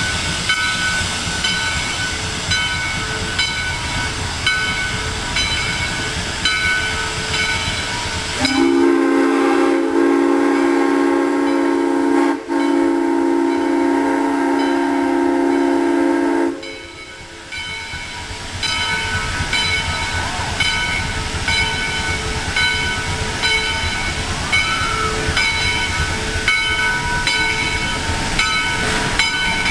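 Steam train running with continual knocking and rattling, broken by one long, loud steam whistle blast of about eight seconds that starts about a third of the way in.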